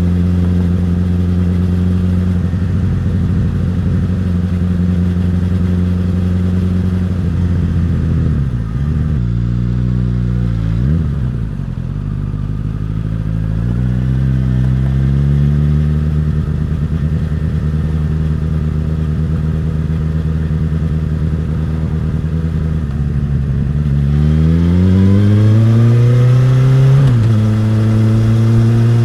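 Suzuki GSX-S1000's inline-four engine and exhaust while riding: running steadily, falling in revs and picking up again about ten seconds in, then revving up under acceleration and dropping sharply on a gear change near the end.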